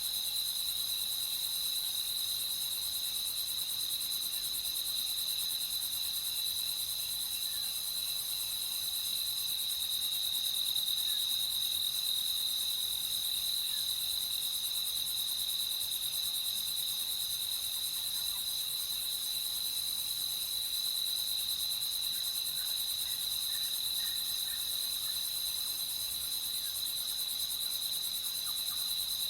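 Crickets chirping in a steady, continuous high-pitched night chorus. A few faint short calls sound in the background in the second half.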